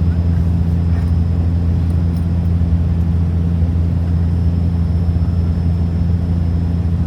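Steady cabin drone of a turboprop airliner on approach: a loud, even low hum from the propellers, with a faint high whine above it.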